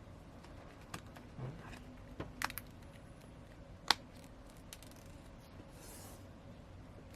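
Scattered small clicks and taps of a smartphone's parts being handled and fitted back together, with one sharper click about four seconds in.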